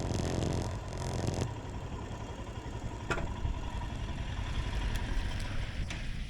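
Royal Enfield Himalayan single-cylinder motorcycle engine running, with a low rumble and hiss that ease off about a second and a half in. There is a single click near the middle.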